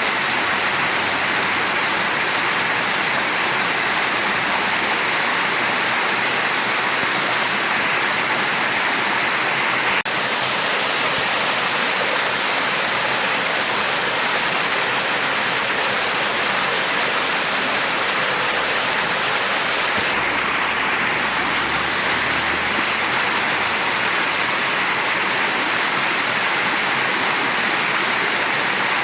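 Mountain stream rushing steadily, a dense even hiss of running water, with a brief click about ten seconds in.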